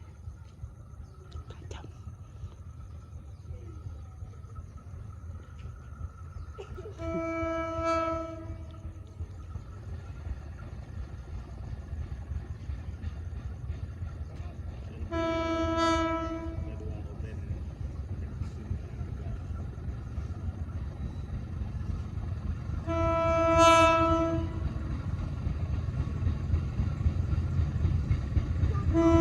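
Diesel locomotive approaching on the railway with a low rumble that grows louder, sounding its horn in three blasts of about a second and a half each, several seconds apart, with a fourth starting near the end.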